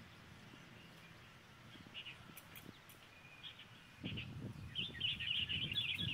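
Small birds chirping: scattered short chirps, then a fast run of chirps near the end. A low rumbling noise comes in about four seconds in.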